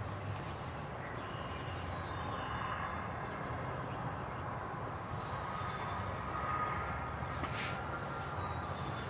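Morning field ambience: faint songbirds chirping and trilling over a steady low rumble.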